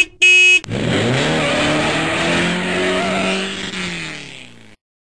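Car horn sound effect honking twice, the second honk longer, then a car engine revving up, holding steady and winding down as it fades, cut off abruptly.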